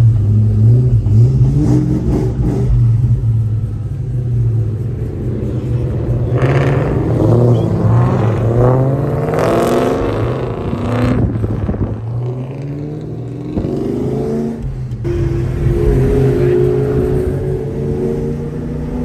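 Supercharged Mustang V8 running steadily, then revving hard through several rising sweeps in pitch in the middle, then settling into a steadier, higher drone that climbs slowly near the end.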